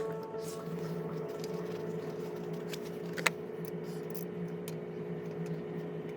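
Kia Morning engine running steadily with a steady hum, and one sharp click about three seconds in.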